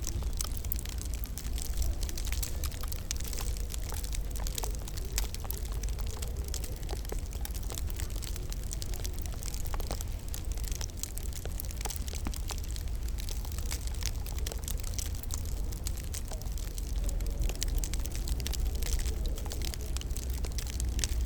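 Wood fire crackling in a fireplace: frequent small pops and snaps scattered irregularly over a steady low rumble.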